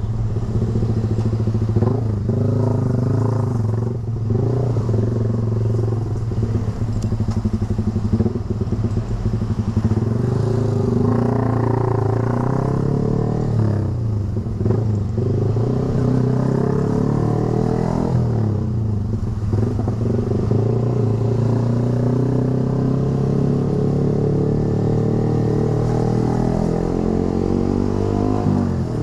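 Yamaha R15 V3's 155 cc single-cylinder engine running through a short aftermarket racing exhaust while riding, its pitch rising and falling with the throttle and gear changes.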